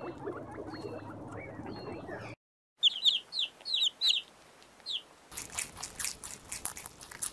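Guinea pigs grazing, with soft rustling and faint high chirps. After a short gap come baby chicks peeping, a quick series of loud, high, falling peeps, which is the loudest part. Near the end, rabbits chew greens with crisp, irregular crunching clicks.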